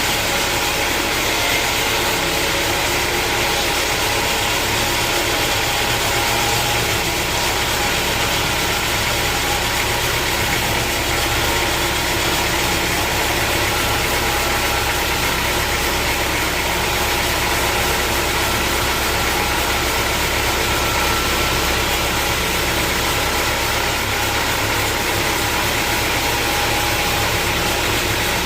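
Sawmill machinery running steadily: an even mechanical drone with a steady hum of motors, unchanging throughout.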